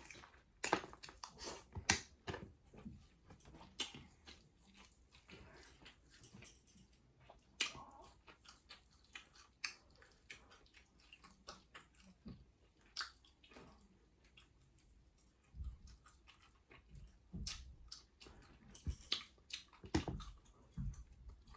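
A person chewing chicken close to the microphone: irregular wet mouth clicks and smacks, a few each second, some louder than others.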